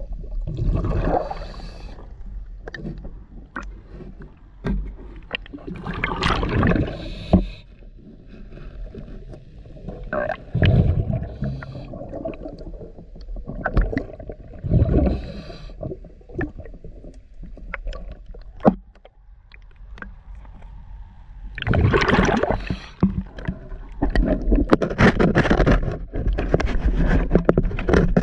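Diver's scuba breathing heard underwater: gurgling exhaust bubbles from the regulator in surges every few seconds, with scattered clicks between them. The surges run together near the end.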